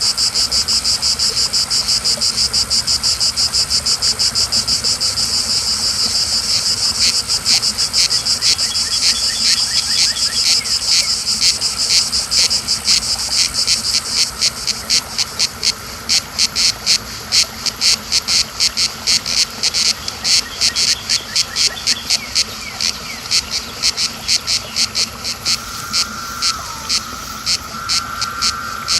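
Chorus of periodical cicadas: a loud, dense high buzz that after several seconds breaks up into rapidly repeated pulsing calls, about two or three a second, over a steadier lower hum.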